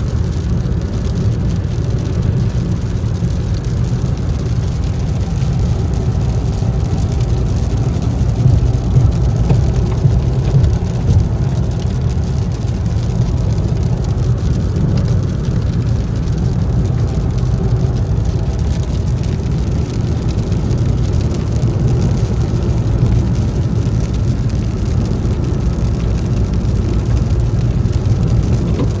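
Cabin noise inside a 2020 Toyota Yaris driving through heavy rain and wind: a steady low rumble of road and wind noise with rain on the body, heard as a test of how well the car is sound-insulated.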